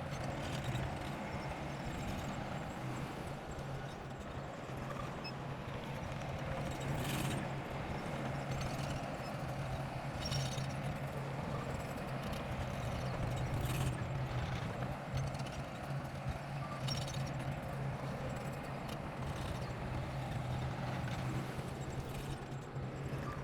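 Heavy-equipment diesel engine running steadily under load, with a few sharp metallic clanks scattered through.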